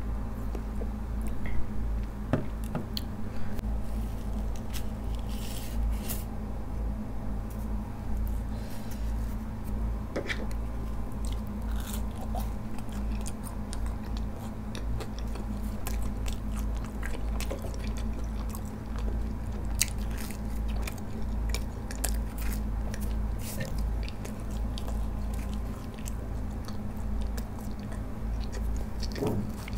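Close-miked chewing and biting of pizza and garlic bread, with many small crunches and crackles of the crust, over a steady low hum.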